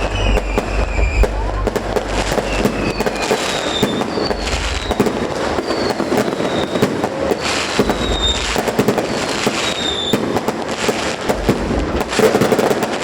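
Fireworks display: a dense run of bangs and crackling, with short falling whistles about every second or so.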